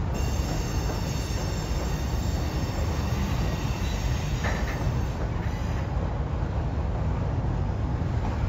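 Double-stack intermodal freight train rolling slowly across a steel truss bridge: a steady low rumble of the cars, with a high metallic wheel squeal of several thin tones that fades out about five seconds in.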